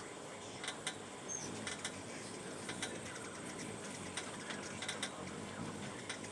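Faint irregular clicks and ticks, a few each second, over a steady low hiss, with one brief high chirp about a second in.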